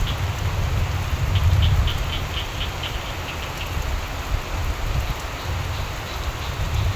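Steady rain falling, with a low rumble underneath. For a couple of seconds in the first half, a frog calls in a run of short pulses, about four a second.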